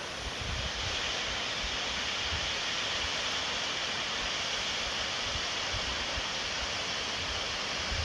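Steady rush of a waterfall's falling water, with faint low rumbles of wind on the microphone.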